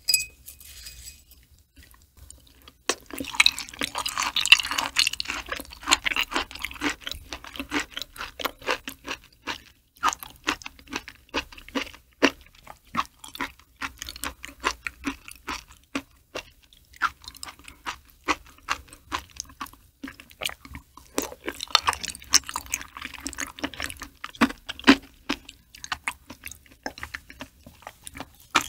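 Close-up chewing of raw liver, beef and stingray: a steady run of short mouth clicks. The clicks come thickest a few seconds in and again near the end.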